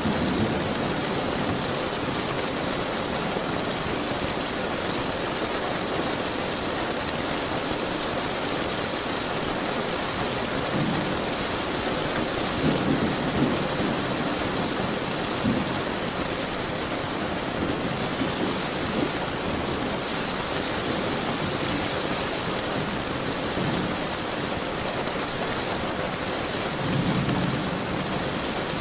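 Steady rainfall with a low rumble of thunder about halfway through, and another near the end.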